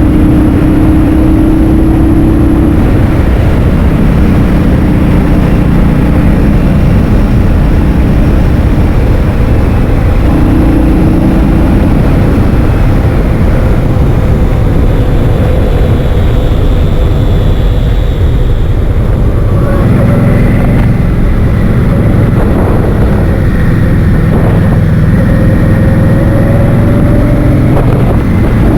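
Loud, steady wind buffeting the microphone of a scooter in motion, with a hum from the scooter whose pitch drifts slightly in the second half.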